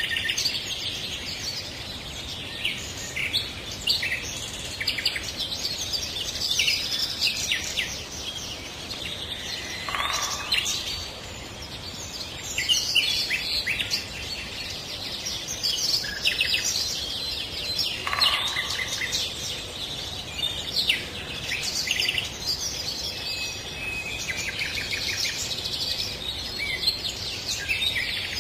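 Many songbirds chirping and singing at once, short calls and trills overlapping without pause, over a steady background hiss.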